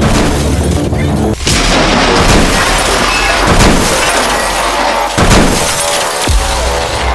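Loud crashing and smashing noise, with breaking-glass sounds and heavy impacts, over music.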